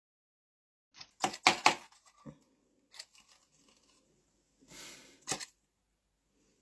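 Paper being handled: a quick run of sharp crackles and snaps about a second in, a few lighter clicks, then a short rustle and one more sharp snap near the end.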